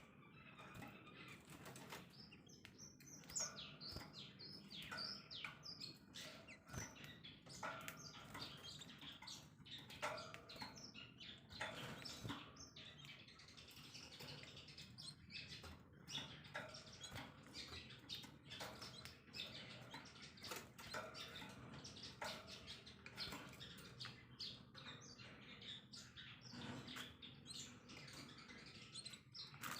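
Songbirds chirping and twittering in a dense, rapid run of short calls that carries on without a break.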